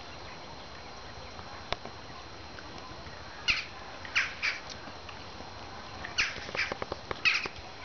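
A small dog gives short high yelps, six in two groups of three, with a few soft clicks among the second group.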